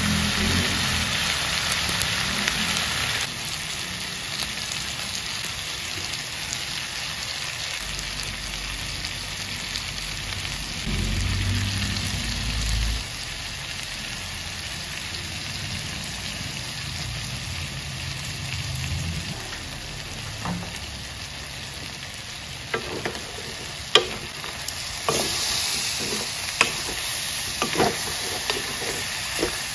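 Chicken pieces sizzling steadily as they fry in a pan. In the last quarter a wooden spatula stirs them, with repeated knocks and scrapes against the pan.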